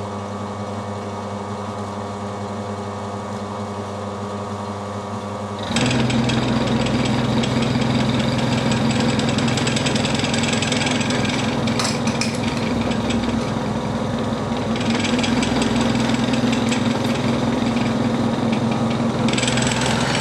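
Milling machine running, then about six seconds in the large milling cutter bites into a silver steel rod and the sound jumps to a louder, rough, rattling cut over a steady hum. It is not a very nice cut but it is cutting, with a second-hand cutter that is not the best.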